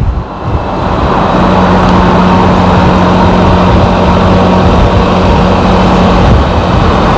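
Can-Am Spyder three-wheeled motorcycle on the move: steady engine drone mixed with wind and road noise, with a steady engine note holding from about a second in until near the end.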